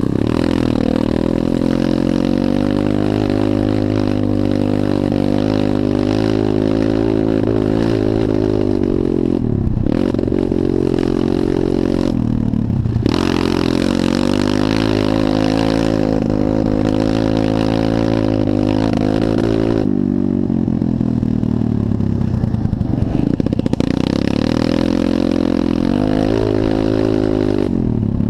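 Pit bike engine running at high revs during a motocross race, the pitch dropping sharply and climbing back about four times as the throttle is rolled off and reopened for corners and jumps.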